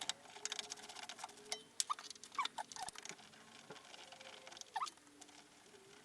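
Quick, irregular metallic clicking and light clinking with a few short squeaks: a wrench working on the ball-joint bolts of a VAZ-2110-family front suspension. The clicking is densest in the first few seconds, then thins out.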